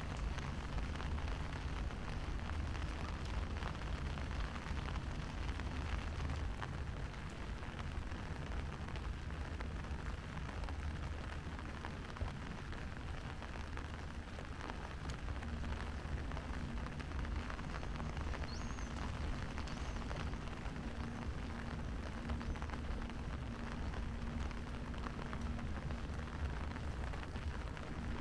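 Steady rain falling on hard ground, an even hiss over a constant low rumble. A faint steady hum comes in about halfway through.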